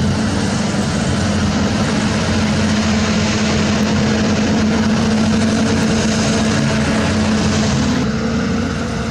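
Diesel engine of heavy earthmoving equipment running steadily with a constant low drone, easing off slightly about eight seconds in.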